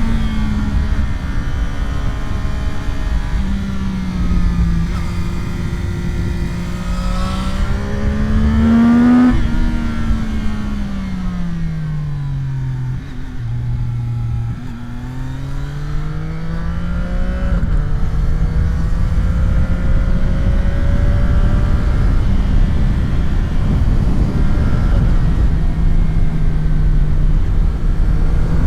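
CFMOTO 675SR-R sportbike's three-cylinder engine under way: the revs climb for several seconds, drop off, climb again and then hold steady, over wind noise on the microphone.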